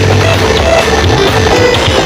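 Very loud music with a heavy bass line, played through a sound horeg, a huge stacked loudspeaker system.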